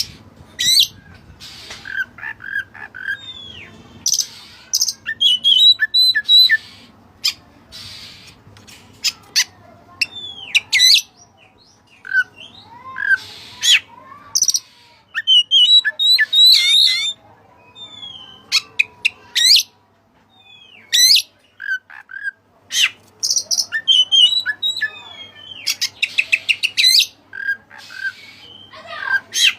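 Oriental magpie-robin of the white-breasted form singing a rapid, varied song of whistled notes, sharp up-and-down sweeps, clicks and quick trills, including phrases learned from the cililin.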